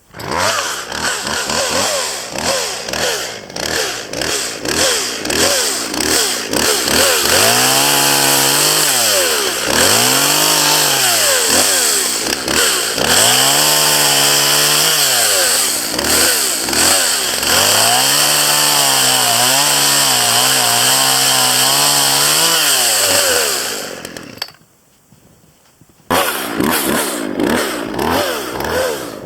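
A two-stroke chainsaw running loud, its engine note repeatedly rising to full revs, holding while cutting, then dropping, as it saws through branches. It drops out for about two seconds near the end, then starts again abruptly.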